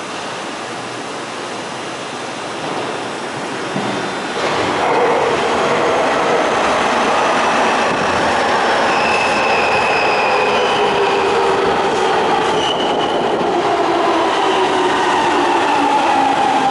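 Electric train running through a station with wheel rumble and a whine whose pitch falls slowly as it slows. The sound grows louder about four and a half seconds in.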